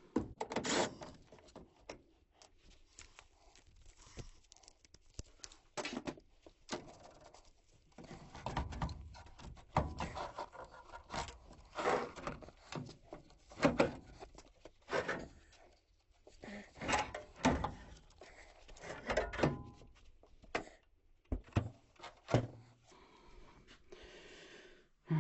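Irregular knocks, clunks and scraping of sheet-metal furnace parts and tools being handled during disassembly of a gas furnace.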